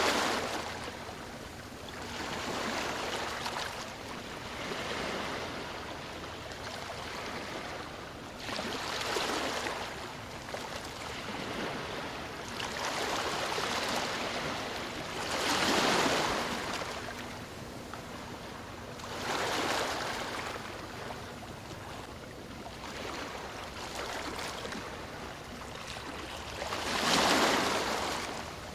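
Ocean waves washing onto a shore. Each surge of surf swells and falls away over a few seconds, with the strongest waves about a quarter and halfway through and again near the end.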